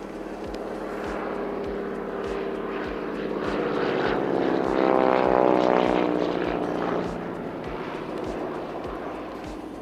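Junkers F13's Pratt & Whitney Wasp Junior radial engine and propeller in a flyby. The sound swells to its loudest about five seconds in, drops in pitch as the plane passes, then fades.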